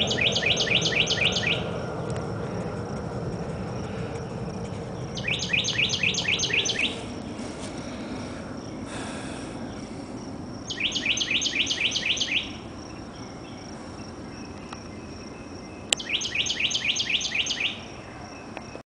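A songbird singing the same short phrase four times, about five seconds apart: each a quick run of eight or so sharp notes falling in pitch, over steady low background noise.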